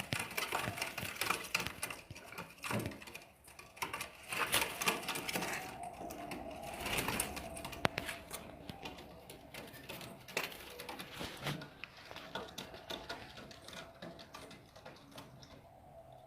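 Pigeons cooing among a dense, rapid clatter of clicks and rustling.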